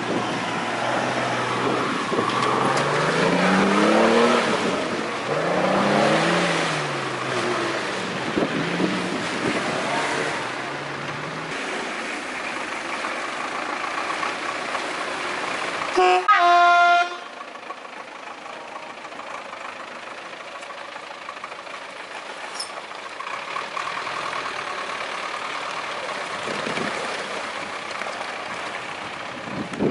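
Off-road vehicle engines revving up and down several times as they drive through mud. About halfway through a vehicle horn sounds once for about a second, loudly, and after it only a quieter, steady engine sound remains.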